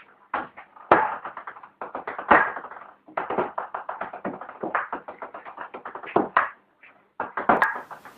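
A rapid, irregular run of knocks and taps, several a second, with a few louder hits among them.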